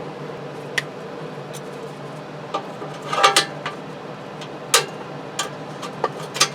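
Metal clinks and knocks as air cleaner parts are handled and fitted. There are single knocks scattered through, a short loud cluster about halfway, and two more near the end, over a steady low hum.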